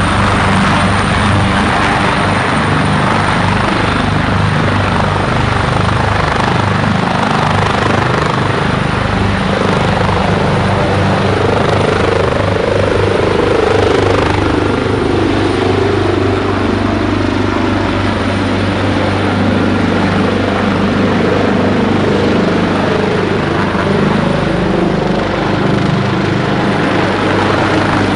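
State police helicopter running close by: loud, steady rotor and engine noise, swelling somewhat in the middle.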